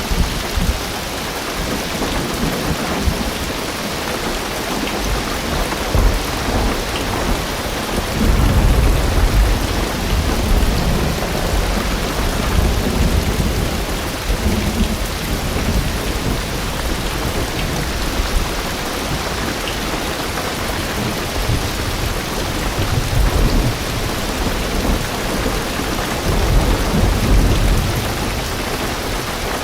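Heavy rain drumming steadily on a car roof and windows, heard from inside the car, with deep rolls of thunder swelling about eight seconds in and again near the end.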